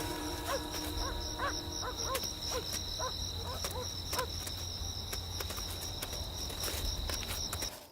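Night-time wildlife ambience: a steady, high-pitched insect trill, with a run of short chirping animal calls that stops about four seconds in. The sound cuts off just before the end.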